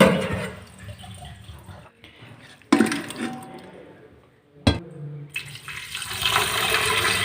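Water running from a tap into a sink, heard in several short stretches that start abruptly, with the flow getting louder over the last two seconds.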